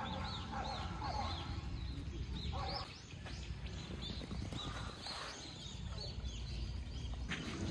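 Birds chirping in many short high calls, over a steady low rumble of wind on the microphone.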